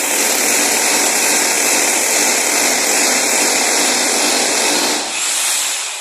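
Loud steady rush of air or gas escaping under pressure, like refrigerant line work on a split air conditioner. It dips about five seconds in, then comes back briefly and fades.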